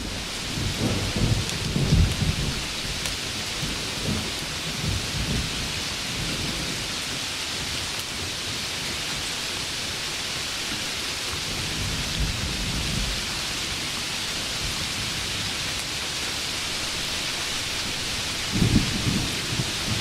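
Steady heavy rain hiss with low rolling thunder rumbles, the thunder swelling in the first couple of seconds and again near the end.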